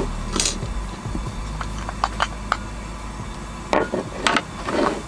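A scattering of short, light knocks and clicks, about eight in five seconds, as of camp gear and cooking things being handled.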